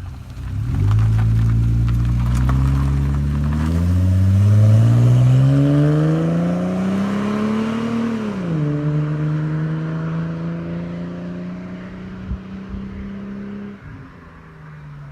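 Holden VY Commodore Berlina with a 2.5-inch Redback aftermarket exhaust, accelerating. The exhaust note climbs steadily, drops sharply at a gear change about eight and a half seconds in, then holds and drops again near the end, growing fainter over the second half.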